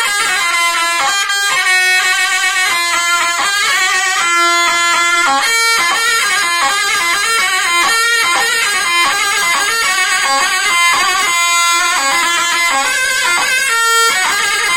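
Instrumental Turkish folk dance music, a halay tune carried by a fast, busy melody line with many quick note changes.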